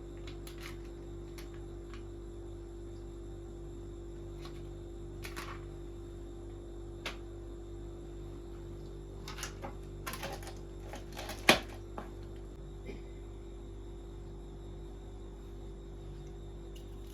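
Scattered light clicks and taps of small objects being handled, over a steady electrical hum, with a cluster of them and one sharp knock about eleven seconds in.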